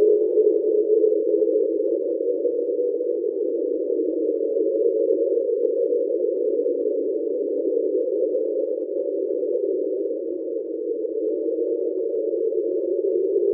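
Underwater hydrophone recording of the NOAA "Train" sound: a continuous, steady drone of several closely spaced low tones. NOAA attributes this sound most likely to a very large iceberg grounded off Antarctica.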